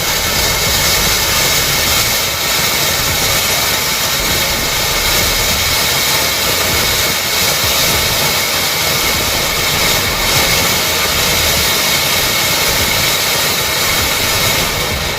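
Ground fountain firework spraying sparks with a steady, loud hiss that cuts off suddenly at the end.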